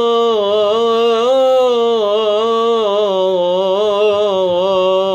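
A man singing an Arabic devotional nasheed, drawing out one long ornamented note whose pitch wavers slowly up and down.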